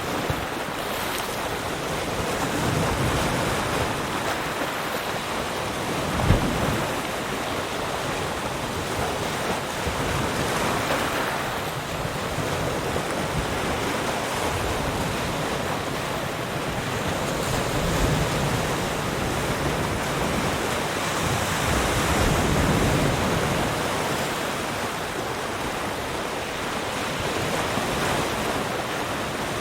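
Ocean surf: waves breaking and washing ashore in a steady rush that swells and ebbs every few seconds, with a brief low thump about six seconds in.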